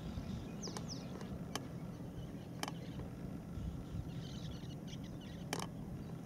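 Wild bird calls: two quick, high, falling whistles about a second in and a few faint chirps later, with a few soft clicks, over a low steady background rumble.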